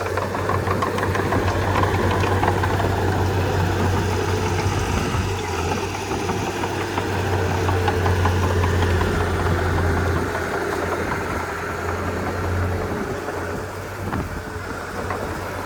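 Komatsu D31P bulldozer's diesel engine running steadily with a low drone and a fast clatter over it, easing off a little near the end.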